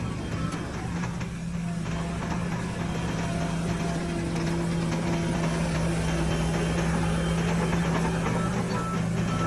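Heavy construction machinery's diesel engine running steadily. A reversing alarm starts beeping near the end.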